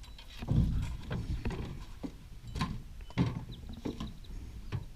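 Irregular knocks and thumps in a small fishing boat, some of them heavy, while a muskie is being landed.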